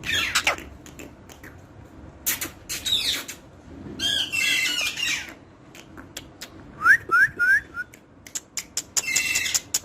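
Pet parrot squawking and calling in short bursts, with a run of four short rising whistles about seven seconds in, and a quick series of sharp clicks near the end.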